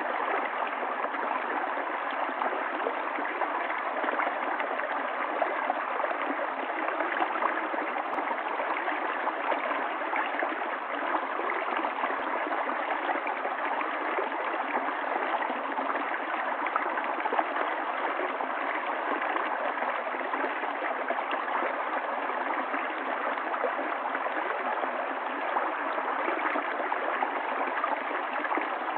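Stream water running and gurgling steadily over stones.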